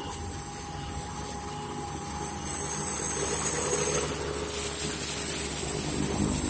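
A truck engine running low on a downhill road, under a very high-pitched buzz. The buzz pulses at first, then grows loud and steady for about a second and a half before easing off.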